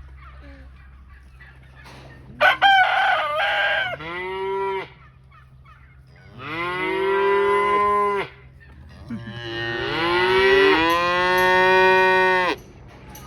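A cow mooing: several long calls, the longest near the end, each falling in pitch as it fades, with a shorter, higher call about two and a half seconds in.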